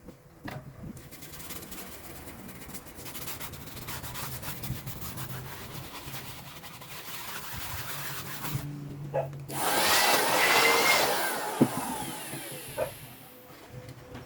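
Scratchy rubbing and scraping work on a bass loudspeaker driver for several seconds, then about ten seconds in a louder two-second blast of a small blowing motor with a faint whine, and a few light knocks.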